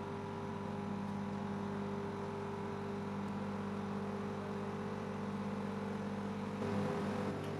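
Steady engine drone, a low hum that holds one pitch, with a brief louder shift near the end.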